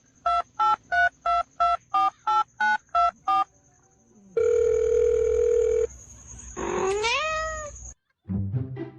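About ten quick telephone keypad beeps are dialled, then a steady phone ringing tone sounds for about a second and a half. A cat then gives one meow that rises and falls in pitch.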